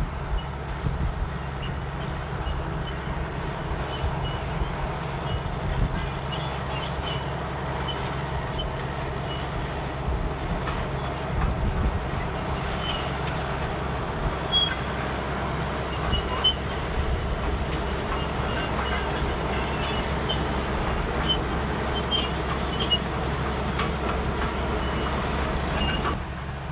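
Komatsu D65EX crawler bulldozer running steadily with a low diesel drone, while scattered short high squeaks and clinks of steel tracks sound over it. It gets a little louder from about ten seconds in and drops back near the end.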